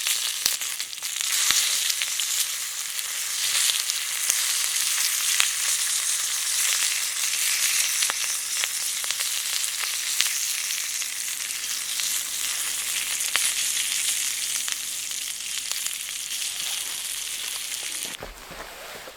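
Food frying in a pan over a campfire: a steady sizzle with frequent sharp pops, cut off abruptly near the end.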